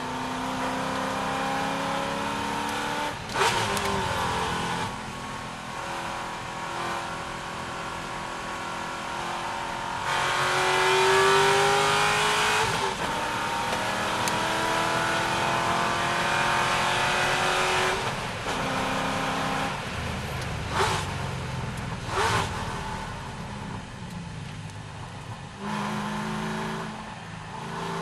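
C6 Corvette V8 at race pace, its engine note repeatedly climbing and dropping back as it works through gears and corners, with a few short sharp clunks along the way.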